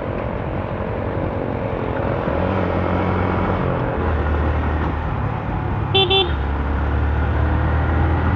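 Motorcycle engine and road noise while riding in city traffic, the engine note stepping up a couple of times. About six seconds in, a horn gives two short beeps.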